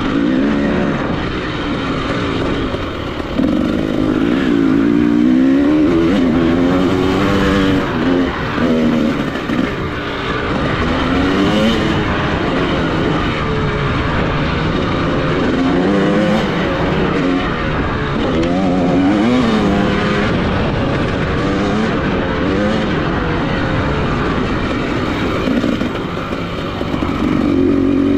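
Off-road motorcycle engine being ridden hard, its pitch climbing and dropping again and again with the throttle and gear changes.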